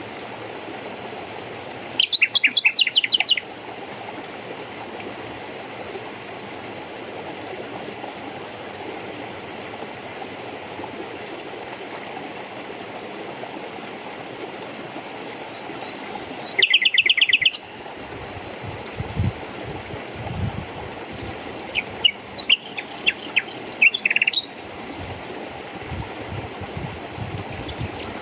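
A songbird sings three separate phrases over the steady rush of flowing water. Each phrase is a short run of high notes followed by a quick series of falling, sweeping notes.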